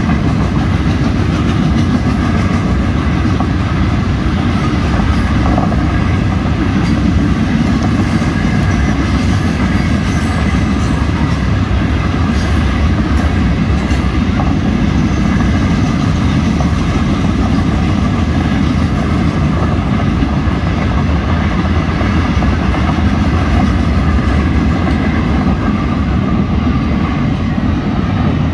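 Florida East Coast Railway freight train rolling past close by: a loud, steady rumble of wheels on the rails that keeps on without a break.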